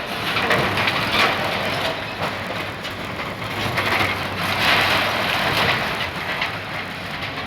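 Building demolition by heavy machinery: continuous crunching and clattering of breaking debris over a steady low engine hum, swelling louder about a second in and again around five seconds.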